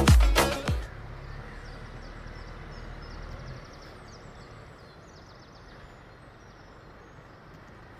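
A music track stops within the first second. Faint outdoor background noise follows, with a low rumble that drops away about three and a half seconds in and a few faint high chirps.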